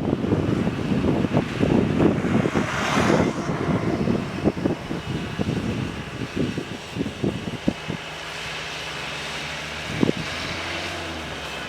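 Wind buffeting the microphone with gusty rumbles, and a vehicle rushing past about three seconds in. From about two-thirds of the way in, a steady engine running at an even pitch is heard under lighter wind.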